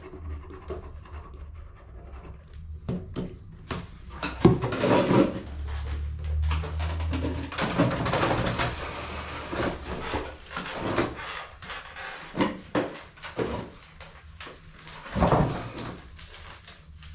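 Hands working on a plastic HP CE285A laser toner cartridge during refilling: irregular clicks, knocks and rubbing or scraping of plastic parts. The loudest knocks come about four seconds in and again near the end, over a low hum.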